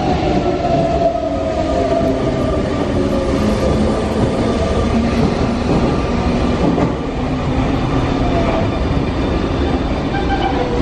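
Sotetsu electric commuter train slowing to a stop at a platform: a steady rumble of wheels on rail, with the motors' whine falling slowly in pitch as it brakes.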